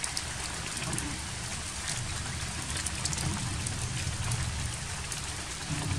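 Steady rain falling on forest foliage, with scattered drop ticks over a low rumble.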